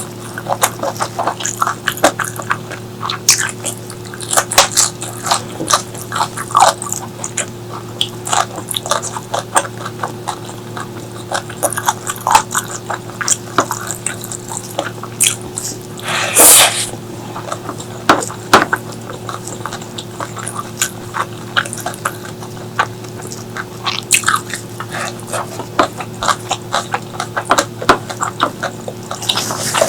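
Close-miked eating sounds: a steady run of quick, wet chewing and mouth clicks, with one louder, longer noise about halfway through, over a faint steady hum.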